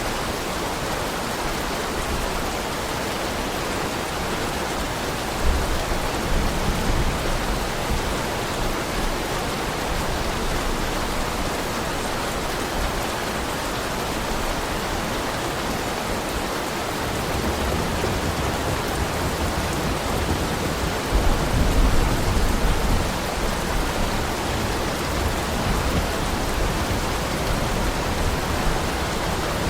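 Heavy rain falling in a steady, even hiss. Twice, about a quarter of the way in and again about two-thirds through, a low rumble swells up under the rain for a couple of seconds.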